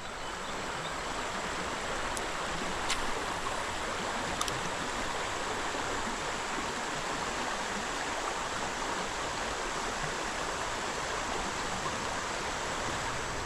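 Creek water running in a steady rushing wash, with a few faint clicks about two, three and four and a half seconds in.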